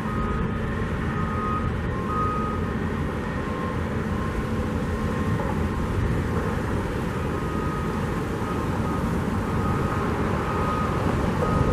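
Steady outdoor rumble of wind buffeting the microphone, with faint short high-pitched tones coming and going over it.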